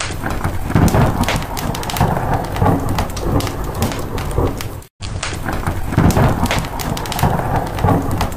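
Looped rain ambience with a low thunder-like rumble and a thick crackle of sharp ticks. The sound cuts out for a moment just under five seconds in, then the same stretch repeats.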